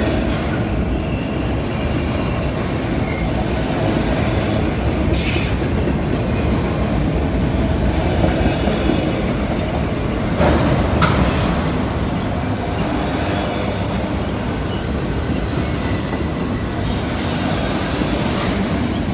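Freight train of autorack cars rolling past, with a steady rumble and rattle of steel wheels on the rails. Thin high wheel squeals come and go.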